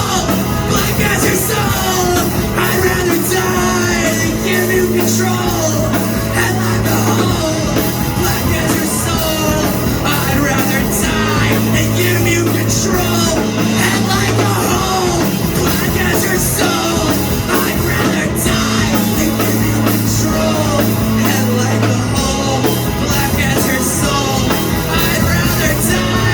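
Live rock band playing loud and full in an instrumental stretch of the song, with bass holding long low notes that change every few seconds under guitar and drums.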